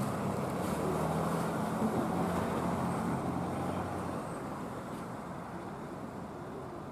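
A fire truck's engine runs as the truck drives off, with road noise. Its low hum stops about four seconds in, and the whole sound grows steadily fainter.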